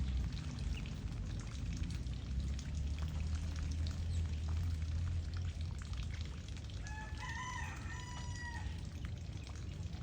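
A rooster crows once, about seven seconds in, over a low steady rumble and a faint patter of water splashing as birds bathe.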